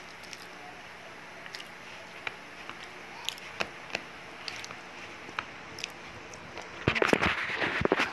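A person biting and chewing pizza close to the phone microphone, with scattered small wet mouth clicks. Near the end comes a louder burst of crackling and knocking handling noise.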